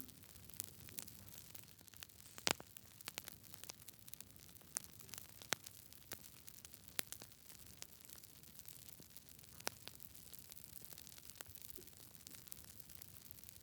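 Wood fire burning in a fireplace, crackling with irregular sharp pops and snaps, the loudest about two and a half seconds in, over a faint low rumble.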